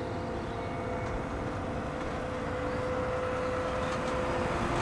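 Combine harvester running, its engine and machinery giving a steady rumble with a held whine, growing slightly louder toward the end.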